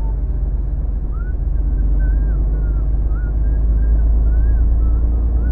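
HGV lorry driving, heard inside the cab: a steady low engine and road rumble. Faint, short wavering high tones come and go over it.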